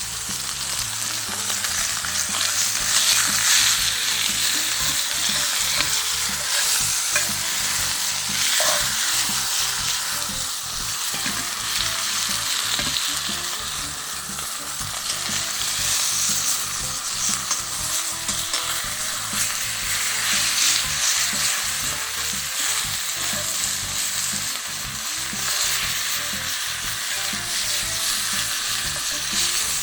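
Steak sizzling and spitting in a hot frying pan, a steady crackling hiss that swells and eases.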